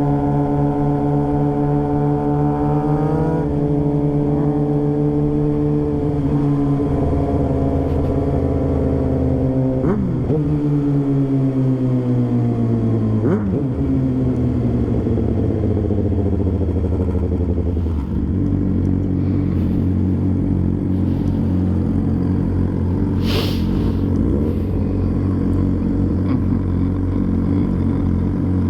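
Motorcycle engine running under the rider, its pitch stepping up once early on, then winding down over several seconds with two short blips. From about two-thirds of the way through it settles into a steady low idle. A brief high-pitched squeak cuts in near the end.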